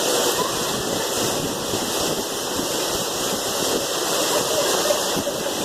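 Heavy rain mixed with hail pouring down, a steady dense rushing noise.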